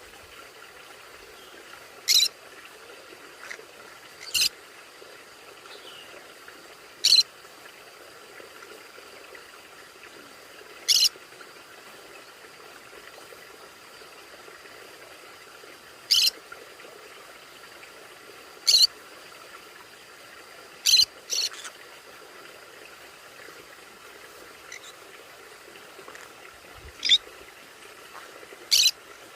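Conure parrot giving short, sharp, shrill calls at irregular intervals of a few seconds, about ten in all, over a faint steady hum.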